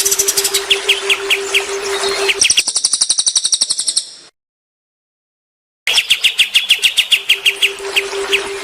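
Songbird chirps repeated rapidly, about four a second, over a steady low hum, changing after about two seconds to a faster, higher run of notes. Near the middle the sound drops out entirely for about a second and a half before the chirping starts again.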